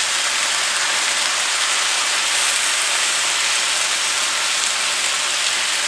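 Bratwurst and sliced onions sizzling in olive oil in a frying pan: a steady, even frying hiss.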